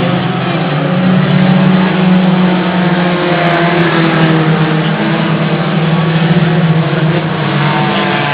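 Race car engines running: a loud, steady drone with no clear pass-by.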